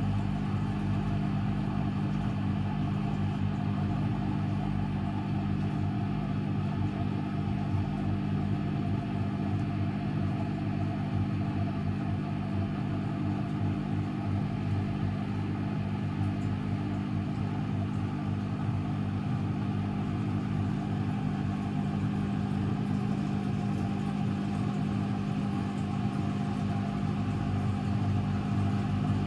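Constructa Energy 1000s washing machine running, its motor and drum giving a steady low hum that holds even throughout.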